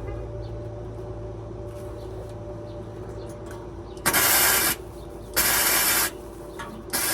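Carbureted engine idling steadily on a freshly cleaned Edelbrock AVS2 four-barrel carburetor. From about four seconds in, three loud, short bursts of hiss cut in over the idle.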